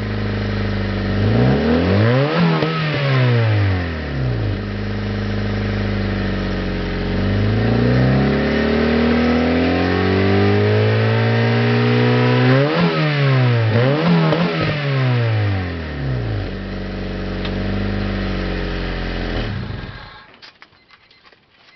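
2000 Honda Civic EX's D16Y8 1.6-litre four-cylinder running through an aftermarket exhaust: idling, revved in quick blips, one slower longer rev, then two more quick blips, settling back to idle each time. The engine falls silent near the end.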